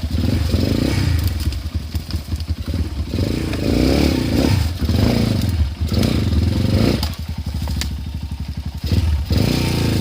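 Enduro dirt bike engine running on a trail, its revs rising and falling, dropping to a low chugging for a couple of seconds near the end, with clatter from the bike.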